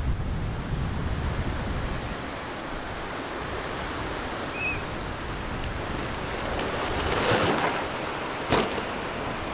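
Strong wind buffeting the microphone, a steady rushing noise with a low rumble, swelling louder about seven seconds in, with one sharp knock near the end.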